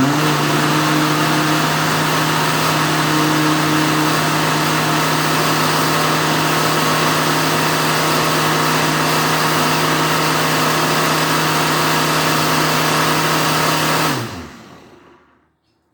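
Countertop blender running steadily at one speed, blending papaya chunks with a little water. About fourteen seconds in it is switched off and the motor winds down, its hum falling in pitch as it stops.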